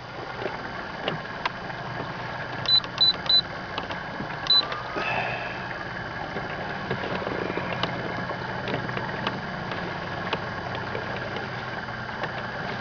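Boat motor running steadily as the boat moves across the lake. Three short high beeps sound about three seconds in, and one more a second or so later.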